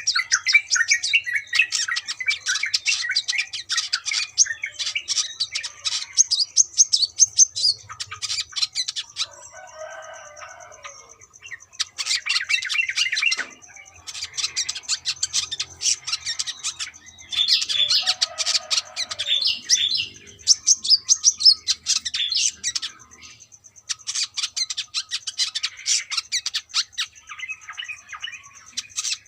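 Brown-throated sunbird singing in full voice: rapid, high-pitched twittering phrases a few seconds long, broken by short pauses.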